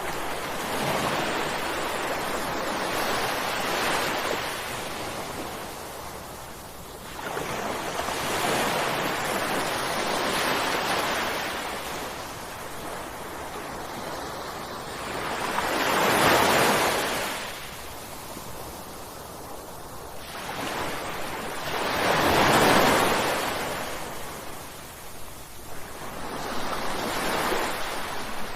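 Ocean waves breaking on a shore, one surge after another, each swelling in a rush of surf and then washing back; the two loudest break about 16 and 22 seconds in.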